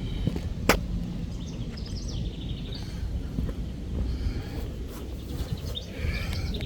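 A single sharp crack from a Parker Hurricane crossbow being fired, about a second in. Birds chirp over steady low outdoor background noise.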